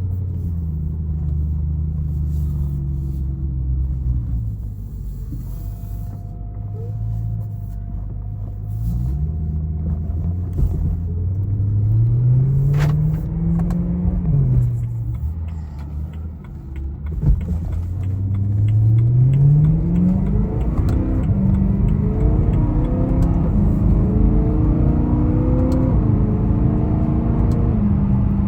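E90 BMW M3's 4.0-litre V8 driving: the engine note sits steady, climbs in revs under acceleration about halfway through and drops back at a gear change, then climbs again and holds at higher revs near the end.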